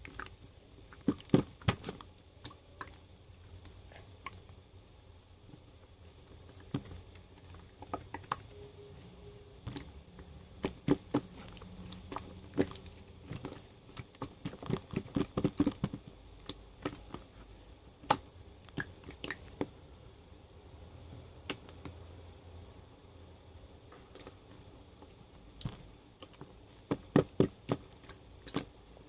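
Scattered sharp clicks and taps in a small room, irregular, some coming in quick runs of several in a row.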